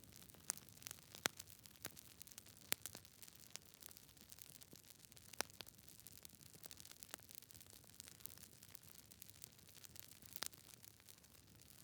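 Wood fire crackling: irregular sharp pops and snaps over a faint steady hiss, a few of them louder than the rest.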